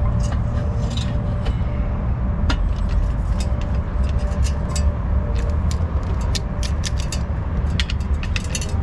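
Ratchet wrench clicking in quick runs while an exhaust clamp's 15 mm nut is tightened down, over a steady low rumble.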